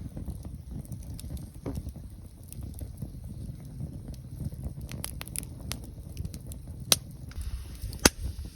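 Campfire crackling, with scattered small pops and two sharp snaps near the end, over a low rumbling noise.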